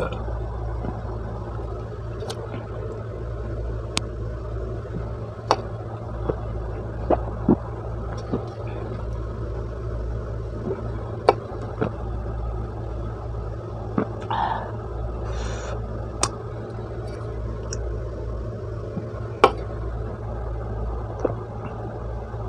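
Close-miked chewing of pizza: scattered soft clicks and smacks from the mouth, every second or two, over a steady low hum.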